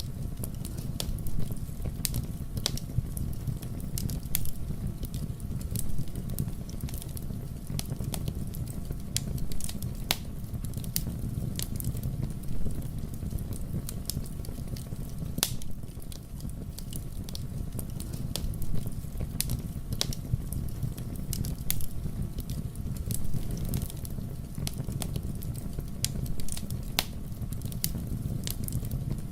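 Fire burning in a fireplace: a steady low rumble of flames with frequent sharp crackles and pops at irregular intervals.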